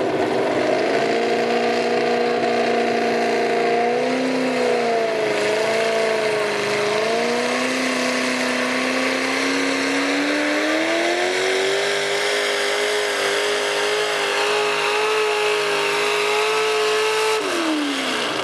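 Truck engine revving hard under load in a truck pull. The revs waver, climb, and hold high and steady, then drop off sharply near the end as the throttle is let off.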